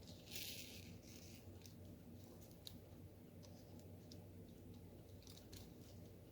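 Faint, scattered light clicks of a diamond-painting pen picking up drills and tapping them onto the canvas, with a short soft rustle about half a second in, over a low steady hum.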